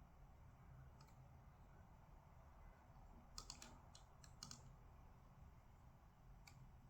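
Faint computer keyboard typing: a few scattered keystrokes, with a quick run of several keys in the middle, over a low room hum.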